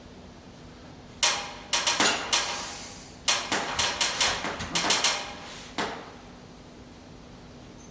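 A tool knocking on a hard surface in two quick runs of sharp knocks, the first about a second in and the second around the middle, then one last knock near six seconds.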